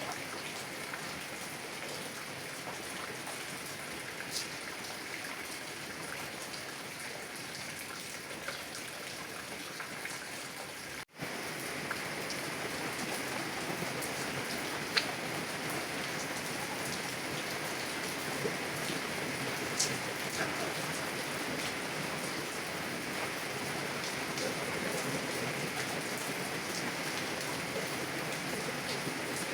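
Heavy rain on a car's window and body: a steady hiss with scattered single drops ticking on the glass. The sound breaks off for an instant about eleven seconds in, then comes back a little louder.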